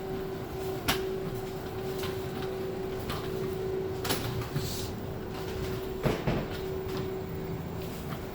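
R62 subway train running, a steady hum with a few sharp knocks and rattles, the loudest about six seconds in.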